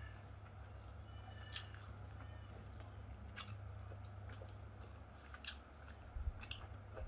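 Close mouth sounds of a man chewing jengkol (dogfruit) balado, with scattered irregular wet clicks and smacks. A steady low hum runs underneath, and a single low bump comes about six seconds in.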